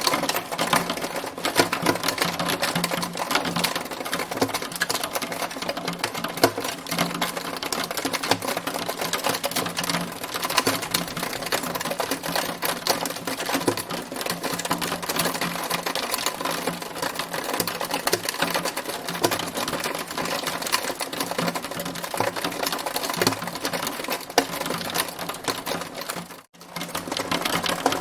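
Hailstones striking a hard surface in a dense, fast, unbroken clatter of ticks, which drops out for a moment near the end.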